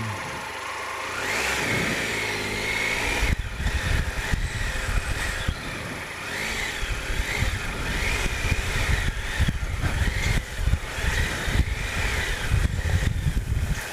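Triumph Explorer 1215cc three-cylinder engine running as the motorcycle is ridden along a track. It rises in pitch about one to two seconds in, then carries on under a rough low rumble.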